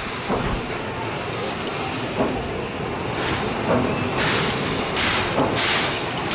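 Steam locomotive chuffing: short, sharp exhaust beats over a running rumble, coming quicker and quicker as the engine gathers speed.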